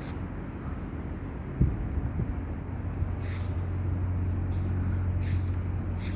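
A vehicle engine running with a steady low drone, with a single knock about one and a half seconds in.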